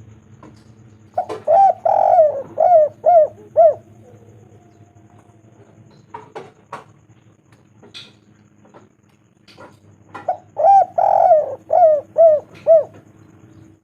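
Spotted dove cooing: two phrases of about six rhythmic coo notes each, the first starting about a second in and the second about ten seconds in.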